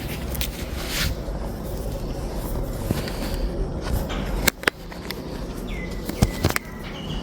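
Steady outdoor rain-garden ambience with a few sharp clicks and snaps, and a short high whistling tone near the end.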